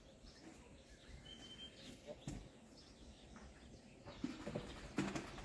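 Faint outdoor ambience with a short, high, steady bird whistle about a second in, and a few sharp knocks with some low sounds near the end.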